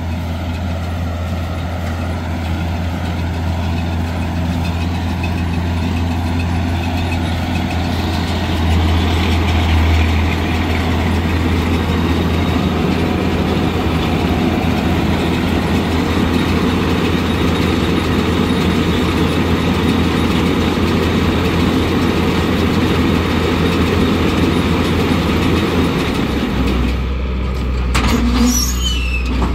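Farm tractor engine running steadily. Near the end the sound shifts to a lower, steadier engine hum.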